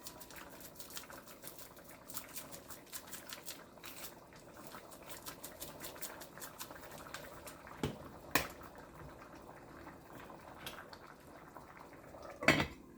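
A pot of seasoned rice simmering on the stove, a steady quiet bubbling and crackling. Two sharp clinks about eight seconds in and a louder knock near the end, utensil or pot against pot.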